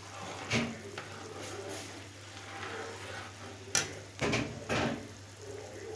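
Cookware clattering: a handful of sharp knocks against a cooking pot, the loudest a cluster about four seconds in, over a steady low hum.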